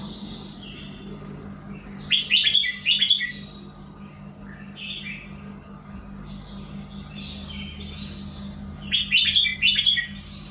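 Red-whiskered bulbul singing: a loud burst of quick, sliding whistled notes about two seconds in and another near the end, with quieter chattering phrases in between.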